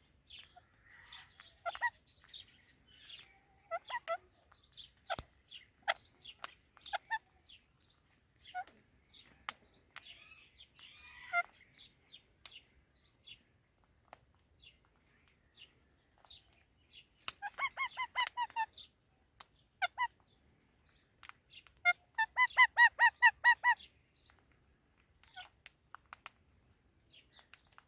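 Pet Indian ringneck and Alexandrine parrots calling: scattered short chirps and clicks, then two runs of rapid, harsh, repeated calls, the second run the loudest.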